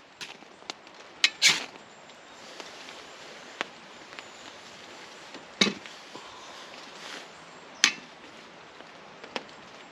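About eight sharp knocks and clinks, spaced irregularly, as camp cooking kit is handled to set up a brew, over a steady hiss of rain.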